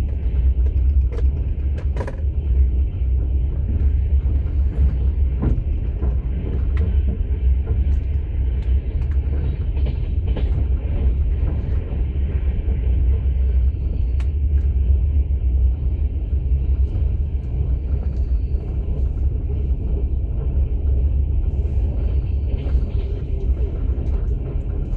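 Passenger train running, heard from inside a platzkart sleeping car: a steady low rumble of wheels on track, with a few faint scattered clicks.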